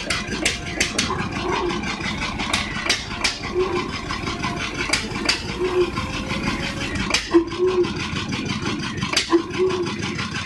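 Vintage stationary engine running steadily, with many sharp, irregular clicks and knocks from its moving parts.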